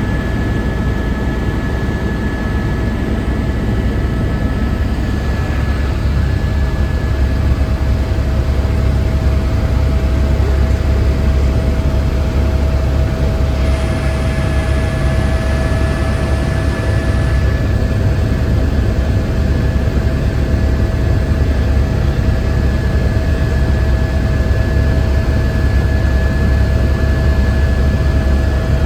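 Steady low engine drone of a moving vehicle, with two constant whining tones over the rumble.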